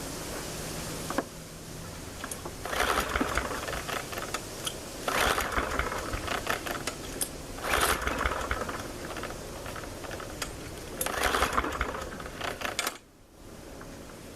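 MTD push mower's recoil starter pulled four times, a few seconds apart, each pull cranking the engine with a short clatter; it never fires. The carburetor has run out of gas.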